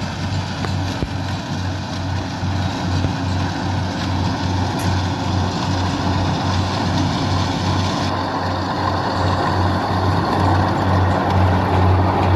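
Rice combine harvester's engine running steadily, a low pulsing hum with machinery noise over it, getting gradually louder.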